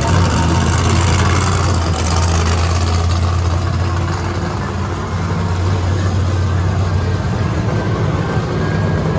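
Monster truck engine running loud and steady at a low, even pitch.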